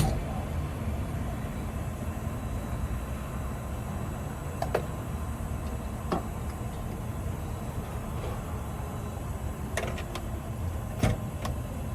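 Steady low car rumble heard from inside the cabin, with a few short faint clicks.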